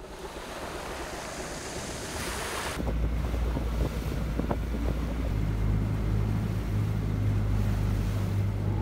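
Wind and sea-water noise; from about three seconds in, wind buffeting the microphone and a heavy low rumble aboard a small wooden fishing boat under way, with a steady low engine drone joining about halfway.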